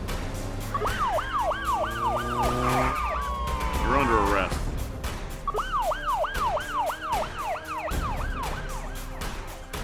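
Cartoon emergency-vehicle siren in a fast yelp, quick falling sweeps about three a second, in two runs with a break in the middle, over background music.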